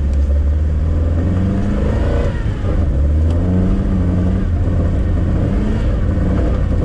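Moskvich-408 car engine running under load, heard from inside the cabin, its revs rising and falling a couple of times.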